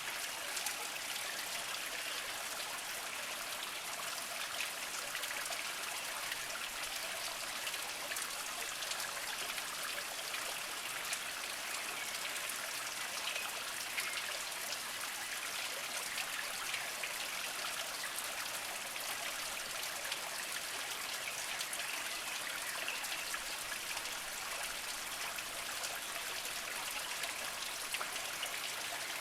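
A small mountain spring trickling over mossy rocks: a steady water hiss scattered with many small drips and splashes.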